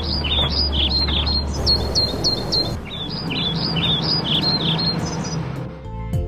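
Small birds chirping and tweeting in quick repeated calls, in two runs with a short break about three seconds in, over a steady low noisy hum; the chirps and hum stop just before the end.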